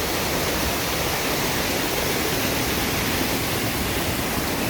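Steady rush of water pouring and churning, from a waterfall or fast mountain stream.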